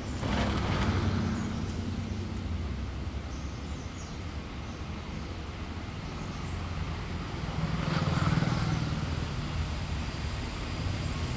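Steady low rumble of road traffic, with a vehicle passing close by at the start and another about eight seconds in.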